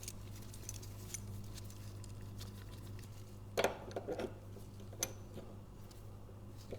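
A few light metal clicks and taps as a two-jaw puller is handled and fitted onto a lawn mower's blade adapter, over a steady low hum. The clicks come in a small cluster about three and a half seconds in and once more about a second later.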